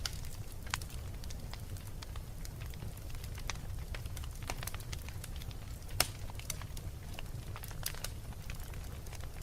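Wood fire burning in a fireplace, crackling with frequent irregular pops over a steady low rumble, one sharper pop about six seconds in.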